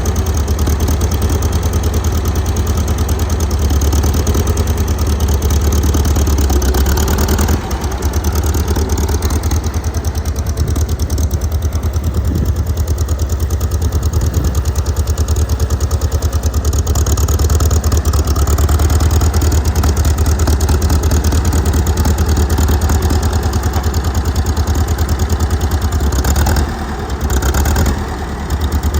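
1938 McCormick-Deering W-30 tractor's four-cylinder engine running steadily, its loudness dipping briefly twice near the end.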